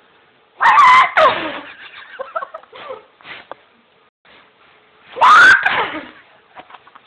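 A dog giving two loud, wavering high calls about four seconds apart, with fainter short yips between them.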